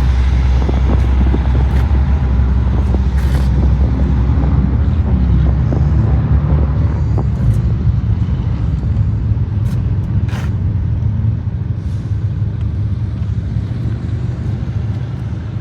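A motor vehicle engine running with a steady low note that shifts slightly about five seconds in, with a few sharp clicks over it.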